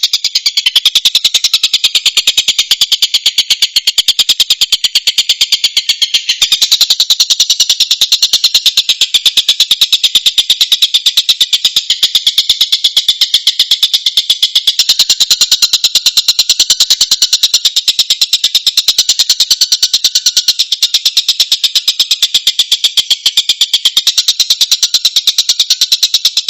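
Tengkek buto, a kingfisher, calling in a loud, continuous rapid chatter of sharp repeated high notes.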